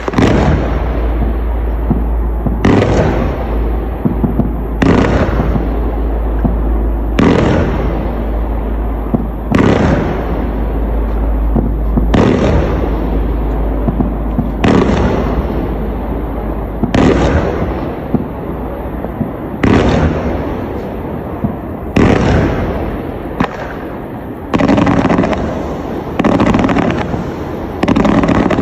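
Fireworks display cake firing shot after shot: a sudden loud blast about every two and a half seconds, each dying away over a second or two, with the shots coming quicker near the end.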